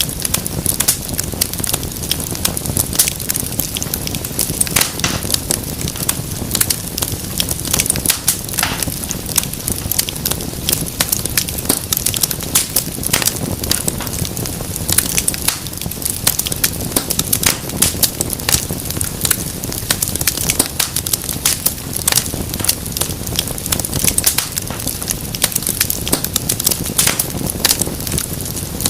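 Wood fire burning in a fireplace, crackling steadily with many sharp, irregular pops over a low rushing flame sound.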